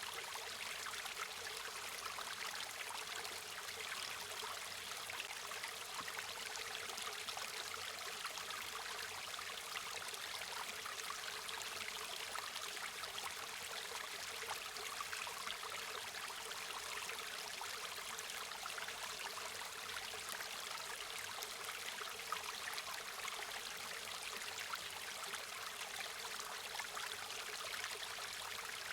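River water flowing over rocks, a steady rushing and babbling with fine splashing.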